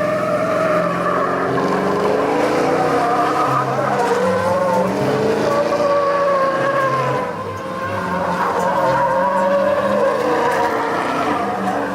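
Spinning truck tyres squealing continuously in a burnout, over the truck's running engine; the squeal wavers up and down in pitch and eases briefly about seven seconds in before picking up again.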